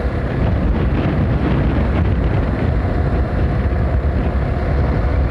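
Heavy wind rushing over the helmet-mounted microphone of a moving Hero XPulse 200 motorcycle, with its single-cylinder engine running steadily underneath at cruising speed.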